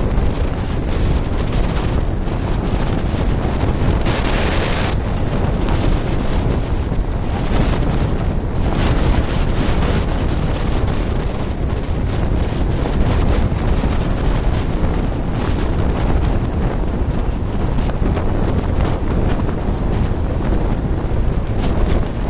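Wind buffeting the microphone of a moving motorcycle, a steady rumbling rush with engine and road noise under it. There is a brief louder gust about four seconds in.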